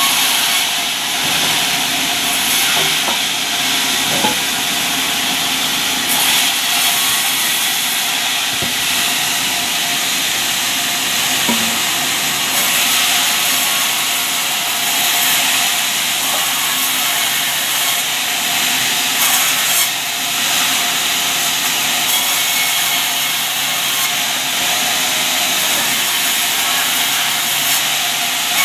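Sawmill saw running and cutting albasia wood: a loud, steady, hissing whine that keeps on without a break.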